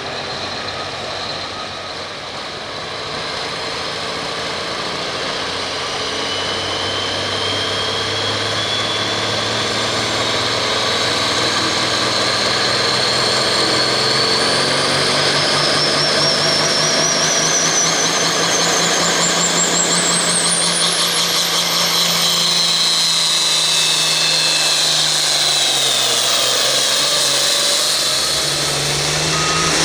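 Turbocharged diesel farm tractor pulling under full load: the engine runs hard while a turbo whistle climbs steadily in pitch for about fifteen seconds, then falls away with the engine note a few seconds before the end.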